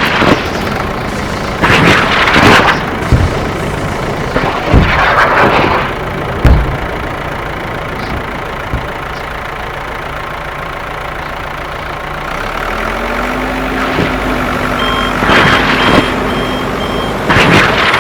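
A motor or engine runs steadily, swelling louder every few seconds. A steady hum joins about two-thirds of the way in, and a regular pulsing beep sounds near the end.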